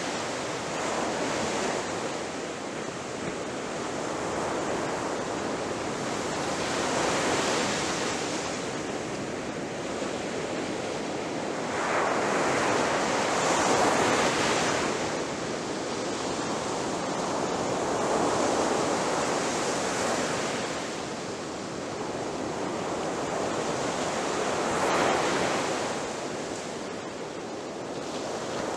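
Ocean waves crashing as a continuous wash of surf that swells and eases every few seconds, each breaker rising and fading. The loudest waves come about halfway through and again near the end.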